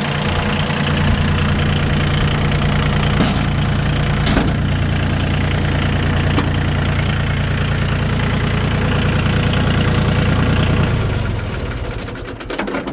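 Yanmar YM2010D tractor's three-cylinder diesel engine running steadily, then shut off about eleven seconds in and running down to a stop.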